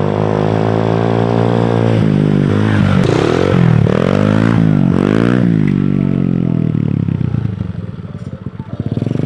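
Single-cylinder engine of a Chinese 110 cc pit bike running, held steady for about two seconds, then its speed rising and falling several times before dropping back to a low, uneven idle where the separate firing strokes can be heard near the end.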